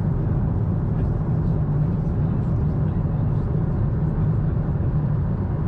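Steady cabin noise of a Boeing 747-8 airliner in flight: an even rush of engine and airflow noise, heaviest in the low rumble.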